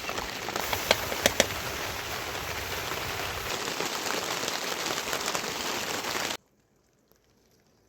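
Heavy rain falling steadily, with a few sharp taps about a second in. It cuts off abruptly near the end, leaving near silence.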